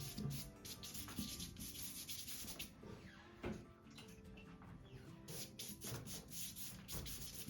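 Paintbrush scrubbing water over water-soluble graphite and compressed charcoal on paper in quick, repeated strokes, with a pause about midway.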